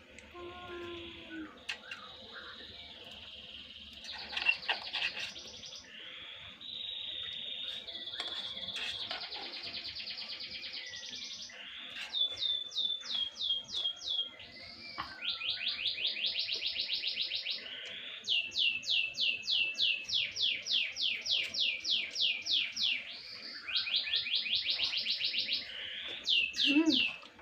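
A songbird singing: rapid trills of short high notes that each slide downward, about six a second, in phrases of a few seconds, with warbling notes between them.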